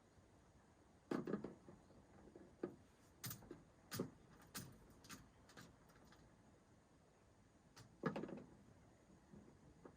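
Scattered knocks and sharp clicks, as of objects being handled and set down: a heavier knock about a second in, a run of sharp clicks over the next few seconds, and another knock near the end.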